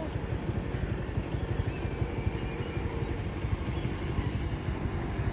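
Low, steady rumble of an approaching motor vehicle's engine.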